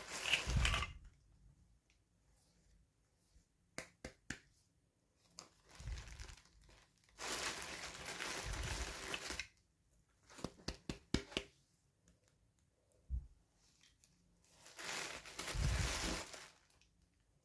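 Toy packaging being crinkled and torn open by hand, in three longer rustling spells with small sharp clicks and taps in between.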